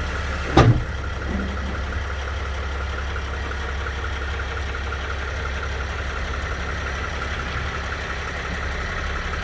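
2010 Sprinter van idling steadily, with one sharp clunk about half a second in: the clunk the owner puts down to the rear differential.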